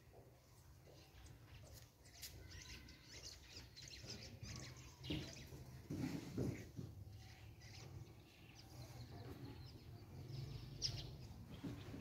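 Faint outdoor background: birds chirping now and then over a low steady rumble, with a few soft knocks about five to seven seconds in.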